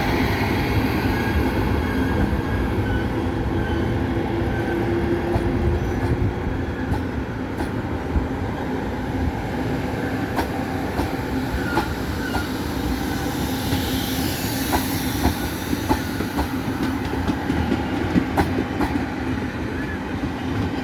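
Ming Ri sightseeing train running on the line with a steady rumble, its wheels clicking over the rail joints more and more often from about halfway through as it picks up speed after the station stop.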